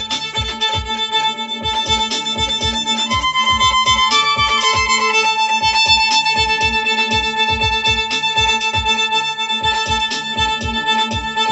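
Music: a drum beaten in a steady pulse under a sustained drone, with a bowed-string-like melody that steps up in pitch and back down a few seconds in.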